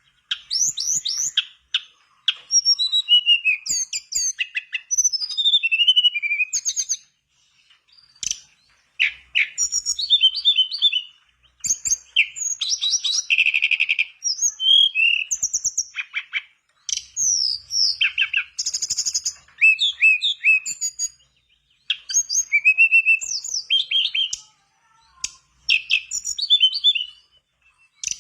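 A tledekan bakau singing non-stop: a fast, varied run of high whistles, chirps and rapid trills, in phrases separated by short breaks.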